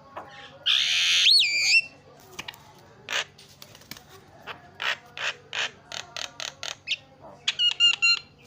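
Javan myna singing: about a second in, a long harsh rasping call with a whistled glide falling through it, then a string of short harsh chips and clicks, and a quick run of whistled notes near the end.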